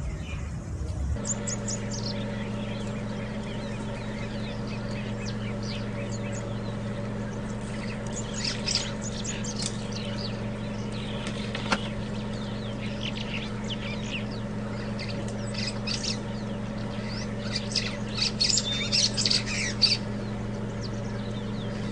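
Birds chirping and squawking in short, scattered calls, thickest in the middle and near the end, over a steady low hum.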